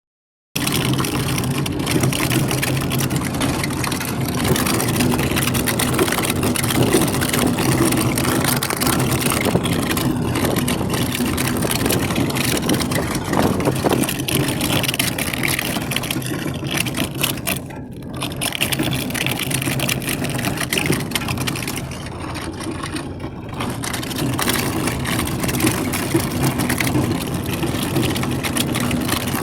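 A Toyota's engine and road noise running steadily, with repeated knocks from the shock absorber mounts: the noise of worn strut mounts.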